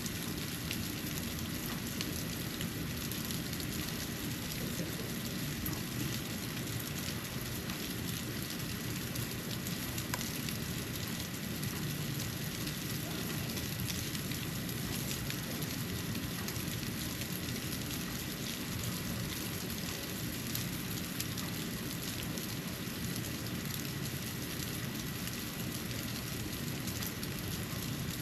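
Snow falling onto a porch: a steady hiss made of many fine ticks and patters, over a low rumble and a faint steady high tone.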